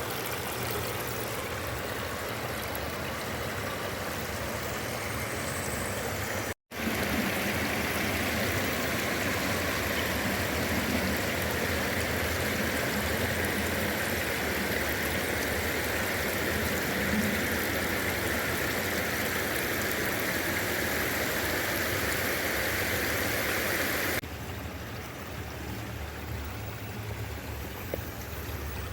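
Steady rush of a small waterfall and creek water. It cuts out for an instant about a quarter of the way in, comes back a little louder, and turns quieter near the end.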